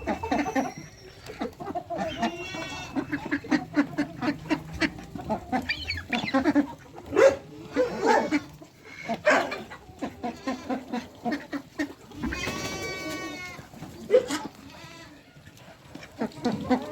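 Mixed farm animals and poultry calling while they eat their feed: a busy run of short calls and pecking clicks, with one longer drawn-out call about twelve seconds in.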